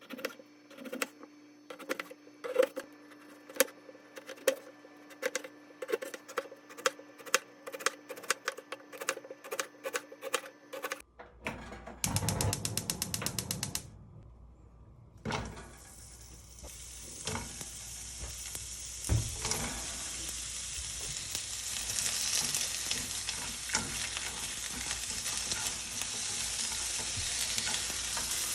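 Food being prepared for yakisoba: a kitchen knife chopping on a cutting board with regular strikes about twice a second, then a brief burst of rapid clicking about twelve seconds in. From about fifteen seconds, ingredients sizzle in a frying pan, the sizzle growing louder, with the odd knock of stirring.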